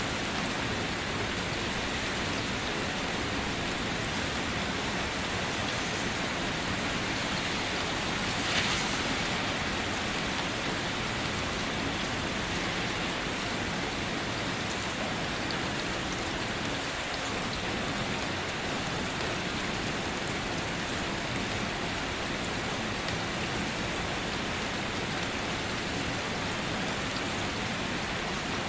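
Steady rain falling and pattering on a surface, with one brief, louder hit about nine seconds in.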